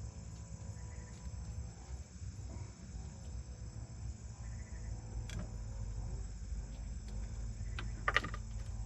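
Night insects chirring steadily over a steady low hum, with a short burst of sharp clicks about eight seconds in.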